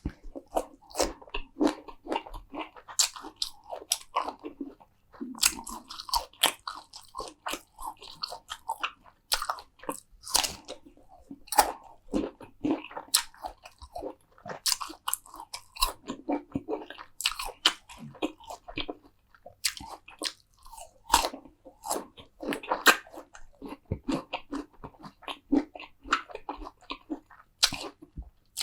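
Close-miked eating: crunchy bites and chewing of crisp food, with many sharp, irregular crackles throughout.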